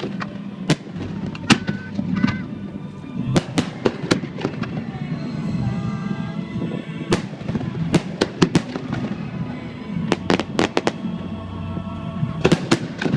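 Fireworks show: aerial shells bursting in loud, sharp bangs that come singly and in quick clusters, over a steady background of music.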